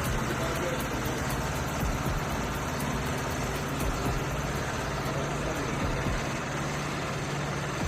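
Heavy haulage truck's diesel engine running steadily, a low even hum.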